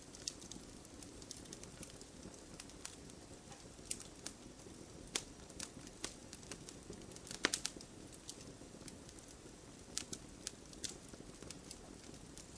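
Wood fire burning in a fireplace, crackling with irregular sharp pops over a steady low hiss of flames. The loudest pop comes about halfway through.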